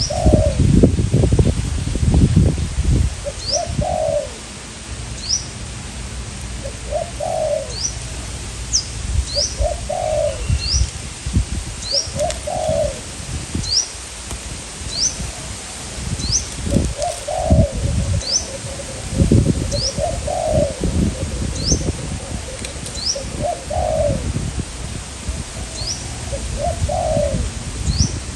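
Spotted doves cooing, short phrases repeated about every two seconds, with strong gusts of wind buffeting the microphone. A thin, high rising chirp repeats over them.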